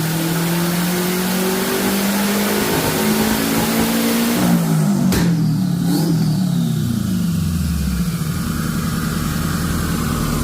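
Big-turbo Subaru STI flat-four running a full-throttle dyno pull, revs climbing, then the throttle is lifted about halfway through with two sharp cracks, and the revs and a whine fall away to a low steady rumble as the car coasts down on the rollers.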